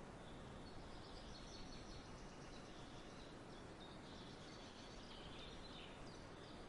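Faint outdoor ambience of small birds chirping and twittering over a steady low background hiss.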